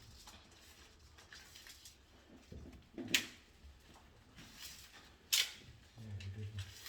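Two sharp snaps a little over two seconds apart over quiet handling noise, from hand tools at work on electrical wiring.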